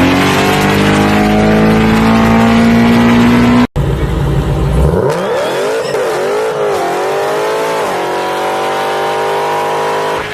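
Car engine running hard at high revs, its pitch climbing slowly as it accelerates. It cuts off abruptly a little under four seconds in, and a second engine takes over, its pitch wavering up and down before climbing steadily again.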